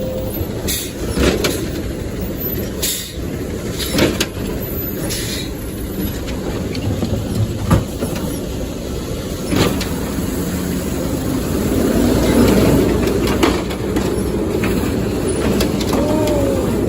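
Garbage truck engine running steadily, with repeated metallic clanks and knocks at irregular intervals and a short squeal near the end.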